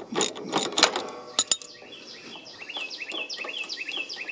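Ratchet wrench clicking in a quick run of sharp clicks that stop about a second and a half in. Then a bird chirps over and over in short notes, each falling in pitch.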